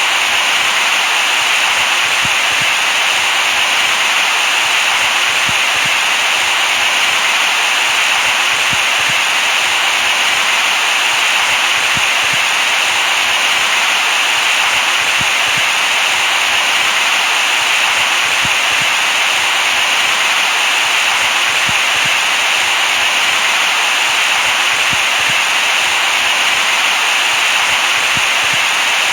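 Steady synthetic white noise, an even hiss that is strongest in the upper middle range and holds the same level throughout.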